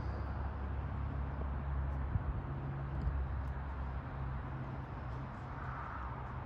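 Diesel freight locomotives running with a steady low engine sound and a few faint clicks.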